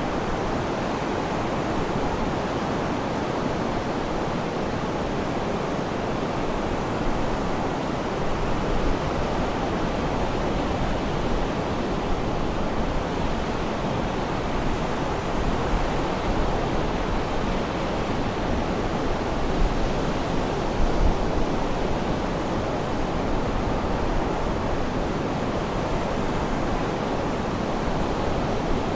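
Sea surf in a steady, even rush of breaking water, swelling slightly about two-thirds of the way through.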